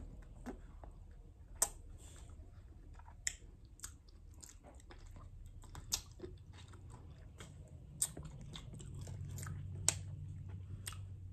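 Fresh cherries being bitten and chewed by mouth, with scattered sharp wet clicks and smacks.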